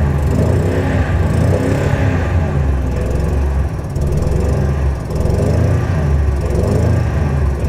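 Ford F250 engine running steadily just after a cold start, with brief dips in level about four and five seconds in.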